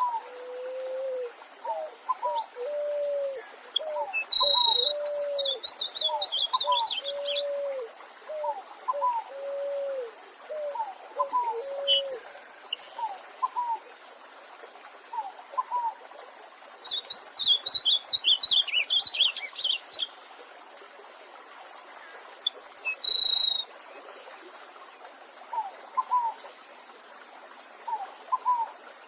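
Several wild birds singing over a faint, steady stream. One bird sings a run of quick high notes three times. Another gives a long series of low, evenly spaced calls through the first half, and some higher short notes carry on to the end.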